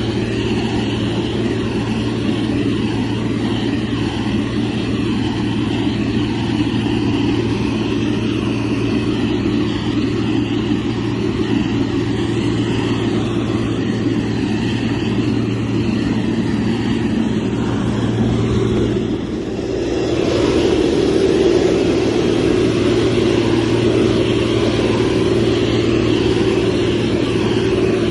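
Motor grader's diesel engine running steadily, with a steady low hum; it dips briefly about two-thirds of the way through, then runs a little louder.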